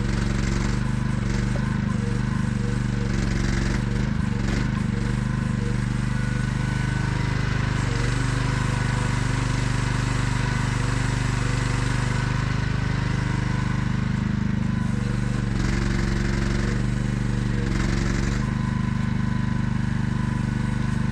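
AGT QH12R mini excavator's small engine running steadily, its pitch sagging a little in the middle as if under hydraulic load, with a few brief knocks.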